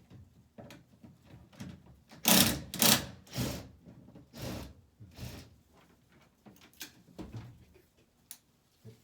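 Irregular knocks, clicks and scraping strokes of hands working on a plastic air-conditioner ceiling panel and its screws. The loudest are a few quick strokes between about two and four seconds in.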